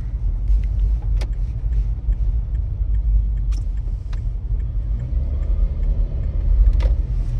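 Steady low rumble of a car driving on a snowy road, heard from inside the cabin, with a few light clicks.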